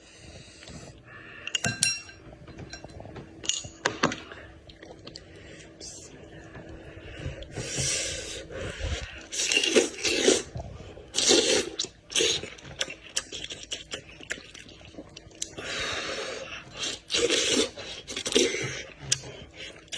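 Close-up eating sounds of a person chewing goat-head meat: irregular smacking and crunching bites, busier from about seven seconds in.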